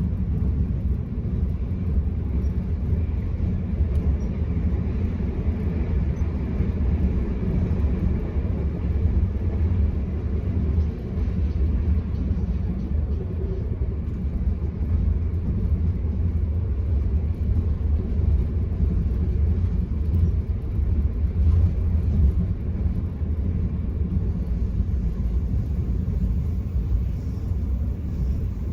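Steady low rumble of an Enterprise intercity passenger train at speed, heard from inside a coach: wheels running on the track and the carriage's running noise, with no distinct clanks or announcements.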